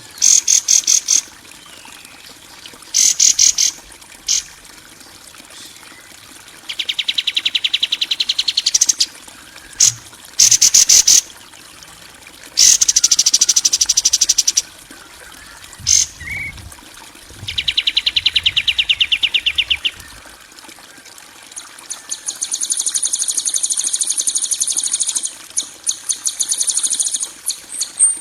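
Harsh bird and insect-like calls from a songbird tutor track: a series of fast, rattling, high-pitched trills, each a second or two long with short pauses between, then a steadier high buzz over the last six seconds.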